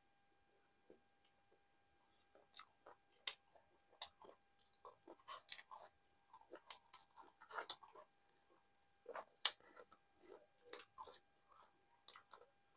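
A person chewing a mouthful of nihari and naan: an irregular run of soft wet smacks and clicks that starts about two seconds in.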